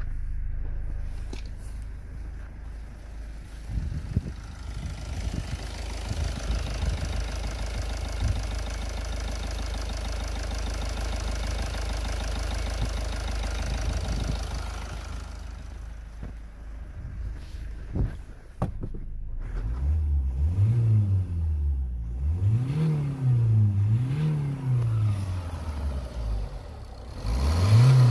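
Kia Ceed 1.6 CRDi D4FB four-cylinder common-rail diesel engine idling steadily, then revved up and let fall back about four times in the last third, with a few sharp knocks just before the revving starts.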